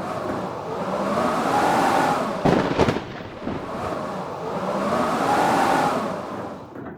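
Blizzard wind howling in gusts that rise and fall, with a quick cluster of sharp knocks or cracks about two and a half seconds in.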